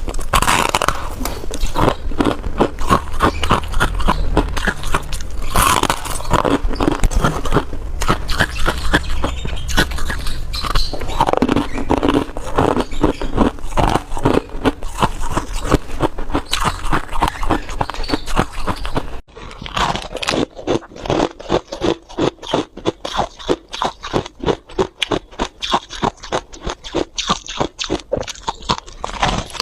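Freezer frost being bitten and chewed close to the microphone: dense, crisp crunching and crackling. About two-thirds of the way through the sound changes abruptly to a steadier run of separate crunches, about three a second.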